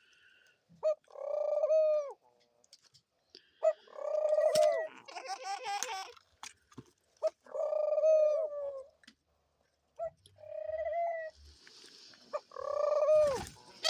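Pet doves cooing: about five separate coos, each lasting about a second and dropping in pitch at the end.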